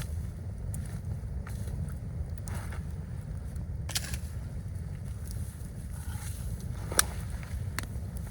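Campfire crackling with scattered sharp snaps, one louder crack about seven seconds in, over a steady low rumble of wind.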